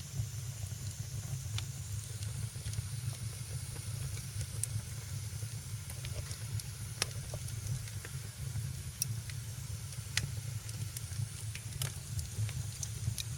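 Wood fire crackling in a fireplace: irregular sharp pops and snaps, roughly one every second or so, over a steady low rumble and a soft hiss.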